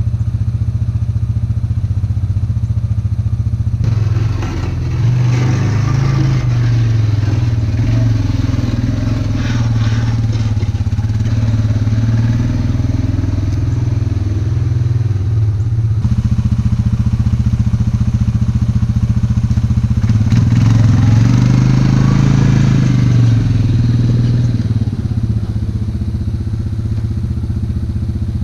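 ATV engine running while plowing snow, revving up and easing off in two long stretches, the first starting about four seconds in and the second near the middle.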